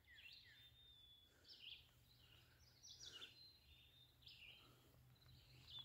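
Faint songbirds calling in woodland: short high chirps and whistles about once a second, with near silence between them.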